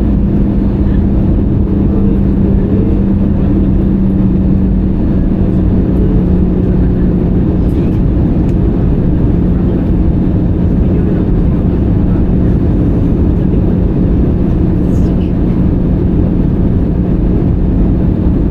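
Cabin noise of an Airbus A320-200 in flight: a loud, steady low drone of engines and airflow with a constant hum that dips slightly in pitch a few seconds in.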